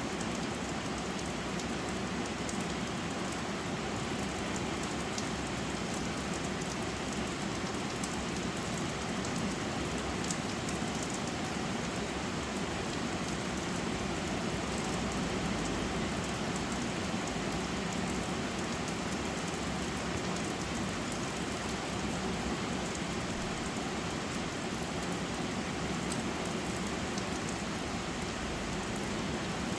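Steady rain falling, a continuous even patter with fine drop ticks, unchanging in level.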